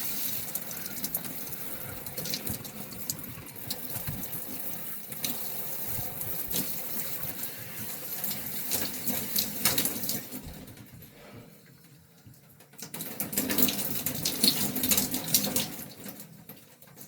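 Shower water running into a glove fitted over the shower head, a steady hiss of spray with splashing and dripping as the glove fills with water. It drops away about eleven seconds in, comes back about a second and a half later, then fades near the end.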